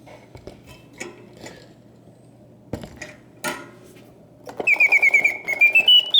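Karl Griesbaum mechanical singing bird cage whose bellows-driven whistle starts its song about two-thirds of the way in: a fast run of high chirps, then a rising warble. Before the song there are a few scattered clicks and knocks over a low steady hum.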